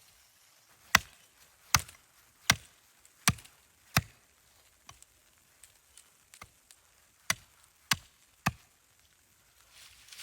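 Axe chopping wood: five sharp strikes about three-quarters of a second apart, a few faint knocks, then three more strikes near the end.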